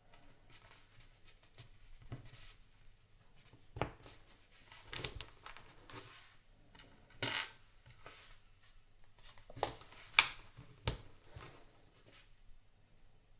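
LEGO bricks being handled and pressed together: scattered sharp plastic clicks and small clatters, with a few short rustles in between.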